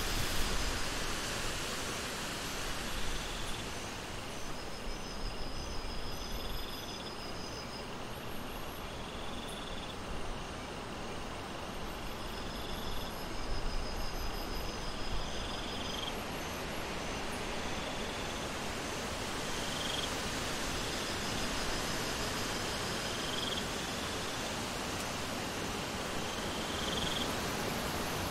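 Steady rain falling, an even hiss, with insects chirping in short repeated trills over it.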